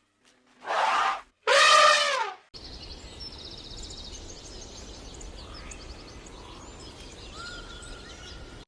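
Two short pitched animal calls, the second louder and falling in pitch at its end. Then steady outdoor ambience with small birds chirping and a brief whistled note near the end.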